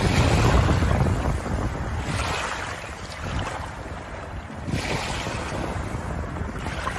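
Ocean waves washing in, a rushing surf noise that swells and ebbs, loudest at the start with a low rumble, with further surges about two and five seconds in.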